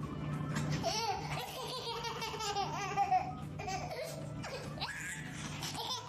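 A baby laughing over background music.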